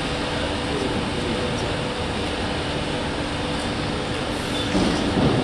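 Steady background noise with a faint constant hum, and a short louder sound near the end.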